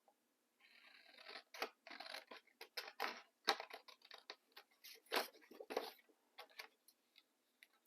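Small scissors snipping paper in a run of short, uneven cuts with paper rustling, easing off to a few light clicks near the end.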